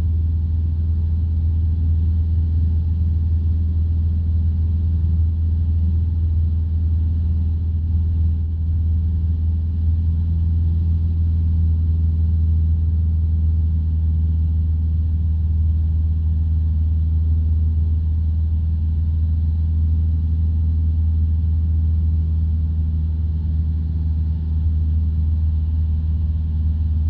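Single-engine light aircraft's piston engine and propeller droning steadily in flight, heard from inside the cockpit: a deep, unchanging hum.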